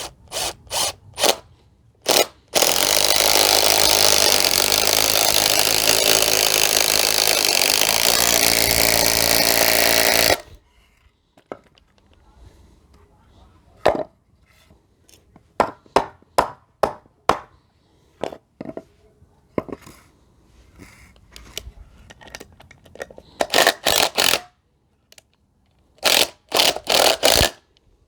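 Parkside cordless impact driver hammering a long screw into stacked wooden blocks: a few short trigger bursts, then one continuous run of about eight seconds. Afterwards come scattered knocks and clicks, and two more short bursts of the driver near the end.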